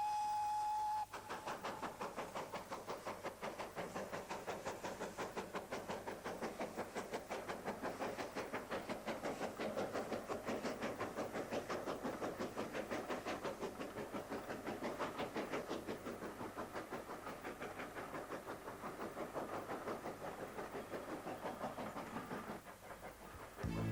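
Steam locomotive whistle sounding steadily, cutting off about a second in, then the locomotive working along with a fast, even run of exhaust beats.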